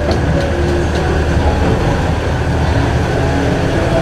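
Shuttle vehicle running, heard from on board: a steady low rumble of engine and road noise, with a few light clicks in the first second.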